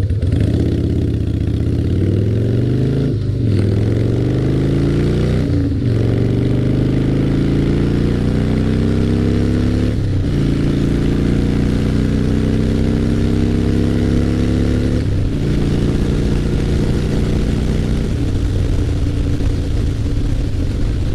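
2003 Harley-Davidson Fat Boy's 88 Twin Cam V-twin, breathing through Paughco slash-cut drag pipes with a stage 1 setup, accelerating hard from a standstill. The engine note climbs through the gears, with upshifts about 3, 6, 10 and 15 seconds in, then holds steady at cruising speed for the last few seconds.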